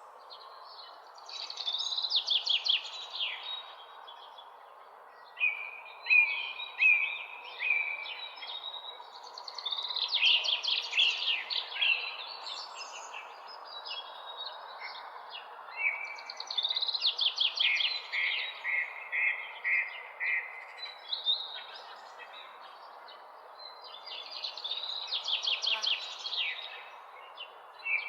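Songbirds singing at dawn: a song of fast notes falling in pitch, repeated about every six to seven seconds, with shorter chirps in between, over a steady background hiss.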